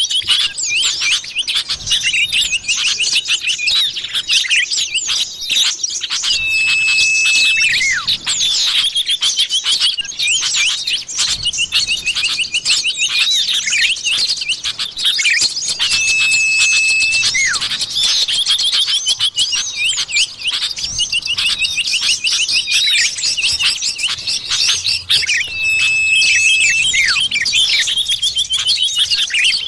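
Common iora (cipoh) calls played as a bird-lure recording: a dense, continuous chatter of quick high chirps and trills. A long, level whistle recurs three times, about every nine to ten seconds.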